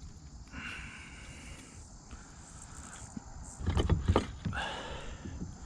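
A short buzzing insect call, then a cluster of knocks and rubbing about four seconds in as a bass is handled in a kayak to work the hook free, then a brief buzz again.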